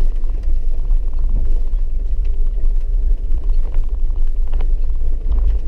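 Four-wheel-drive vehicle driving a muddy dirt road, heard from inside the cabin: a steady low rumble with a few faint knocks.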